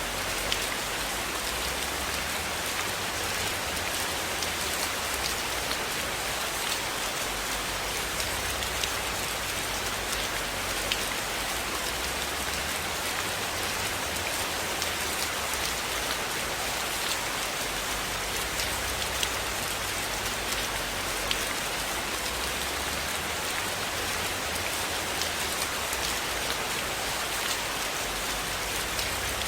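Steady, even rain falling, with scattered sharp ticks through it.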